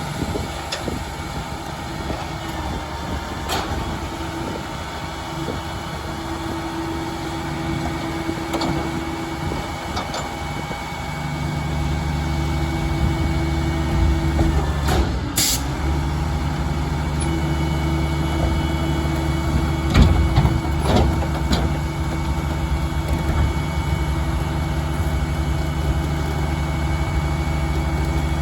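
Mack RD garbage truck's diesel engine running, its hum growing louder and heavier about eleven seconds in. Occasional clanks, and one short sharp sound about fifteen seconds in.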